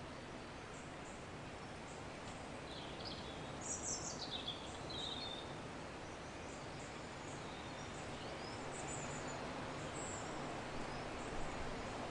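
Nature-sound ambience: a steady soft rushing hiss with birds chirping, a short cluster of high gliding chirps about three to five seconds in and a few fainter ones later.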